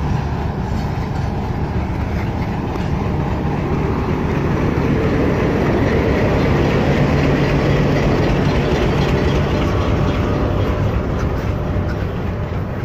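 Passenger train coaches rolling past at close range: a steady rumble of wheels on rail with a low diesel engine hum beneath, swelling to its loudest about halfway through and easing near the end.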